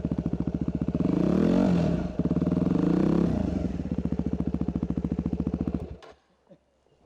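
Dirt bike engine chugging at low revs with an even pulse, revved up twice in short bursts, then stopping abruptly about six seconds in.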